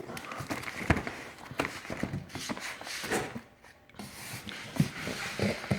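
Cardboard handling noises: irregular knocks, taps and rustling as a boxed firework cake is moved about, with a brief lull a little past the middle.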